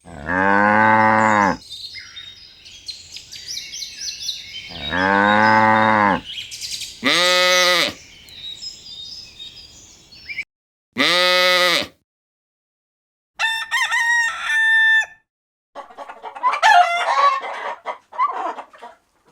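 A series of farmyard animal calls, mostly chickens. There are four drawn-out calls of about a second each, with high chirping between the first two. Then comes a run of short clucking notes, and rougher squawks near the end.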